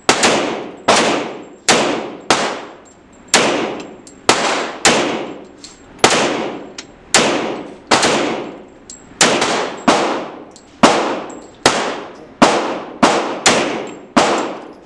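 Pistol fired in a long string of about twenty shots, roughly one every half second to a second and slightly uneven, each with a reverberant tail.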